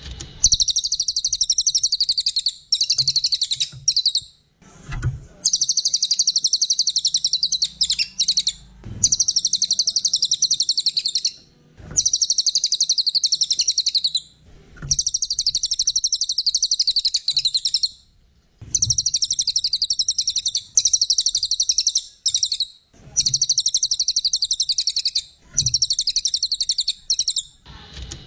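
Cililin bird in full, nonstop song: long bursts of rapid, high-pitched twittering trills, each a few seconds long, with brief pauses between them.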